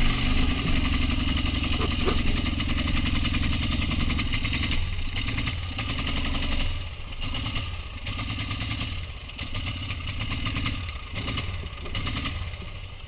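Quad bike (ATV) engine running steadily under throttle, then from about five seconds in revving in short repeated surges, about one a second, growing fainter toward the end.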